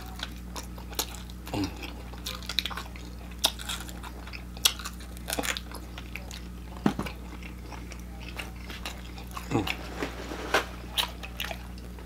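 Close-up mouth sounds of a person biting and chewing an extra-crispy fried chicken leg, picking meat off the bone: irregular sharp clicks of eating, with a steady low hum behind.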